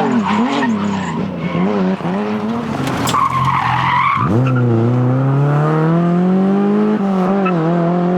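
Rally car engine blipping and dropping in pitch, with a short tyre screech about three seconds in, then pulling hard with rising pitch and changing up a gear near the end.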